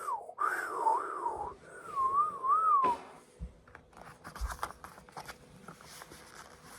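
A person whistling: three short wavering phrases, sliding up and down, over in about three seconds, with breath audible under the tone. After that come only faint rustles and light taps.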